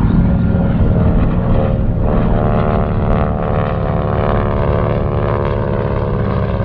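Piston-engine propeller warbird flying past, its engine drone loud and steady with a layered hum of tones, fading just after the pass.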